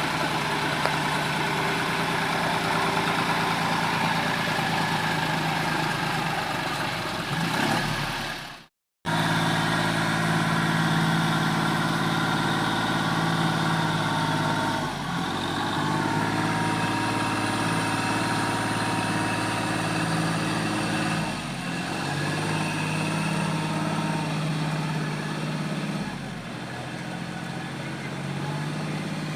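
John Deere 5036 tractor's diesel engine running steadily under load. The sound cuts out completely for about half a second around 9 seconds in, and the level drops a little twice in the second half.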